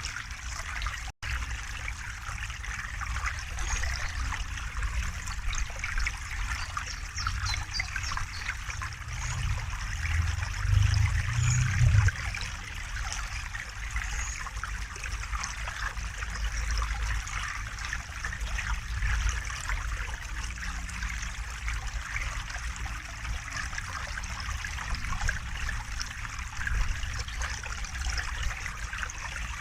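River water running and trickling steadily, with a low rumble that swells for a few seconds near the middle. The sound cuts out for a split second about a second in.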